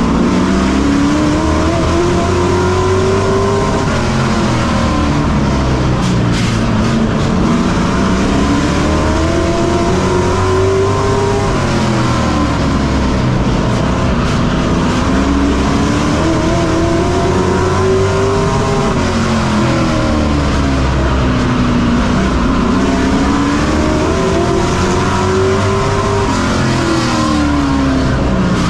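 Racing pickup truck engine heard on board, pitch climbing on each straight and dropping off into each turn, about four times over as it circles a short oval.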